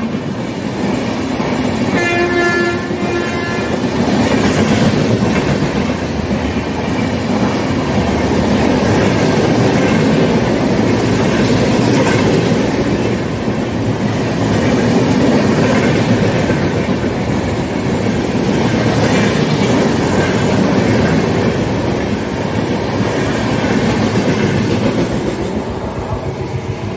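Passenger train coaches rolling past close by along the platform, a steady rumble with wheel clatter over the rail joints. The train's horn sounds briefly about two seconds in, and the noise eases a little near the end.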